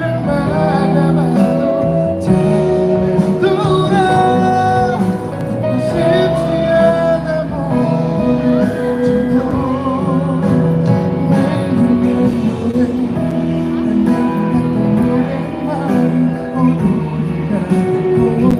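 Live performance of a Korean pop ballad: band accompaniment with a voice singing the melody, some held notes wavering with vibrato.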